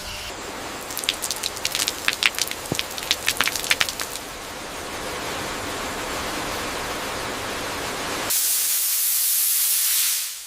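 A quick run of sharp clicks and rattles, then a steady spraying hiss. Near the end the hiss turns louder and higher, then cuts off suddenly.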